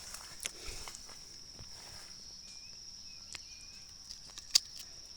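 Steady high-pitched insect trill, cricket-like, with a few faint short chirps in the middle. Scattered soft clicks and rustles and one sharp click about four and a half seconds in.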